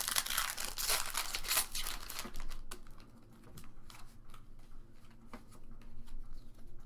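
Foil wrapper of a Pokémon trading card booster pack crinkling as it is torn open, dense for about the first two seconds, then sparser light clicks and ticks of the cards being handled.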